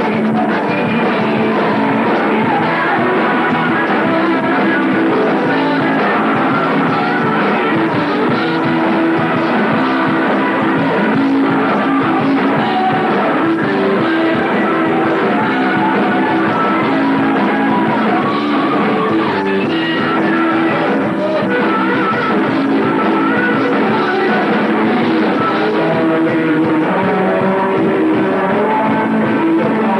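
Heavy metal band playing at rehearsal, with guitar and singing, continuous and loud.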